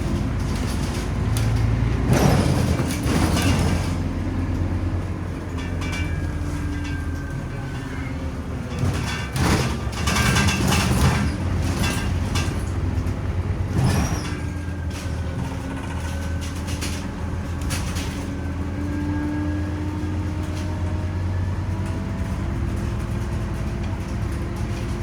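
Scania Omnicity city bus under way: the engine hums steadily, its pitch rising and falling as the bus speeds up and slows. A few short sharp noises come about two, ten and fourteen seconds in.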